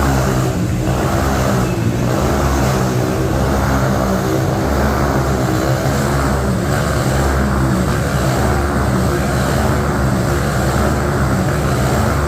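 Motocross dirt bike engine running at fairly steady revs, its pitch wavering slightly throughout.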